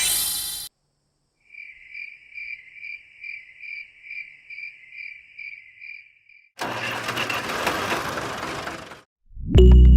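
A high electronic beep pulsing about twice a second for about five seconds, then about two and a half seconds of rushing noise.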